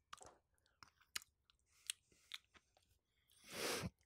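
Faint chewing close to the microphone: scattered small wet clicks and smacks, then a short rush of noise about three and a half seconds in.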